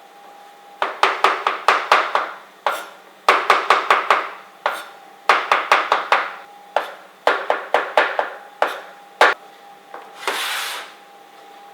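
Knife chopping button mushrooms on a chopping board in quick runs of strokes, about four or five a second, with pauses between runs. Near the end comes a brief scraping swish, and a faint steady hum runs underneath.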